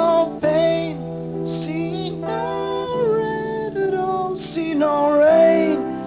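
Male voice singing over acoustic guitar, holding notes and sliding between them.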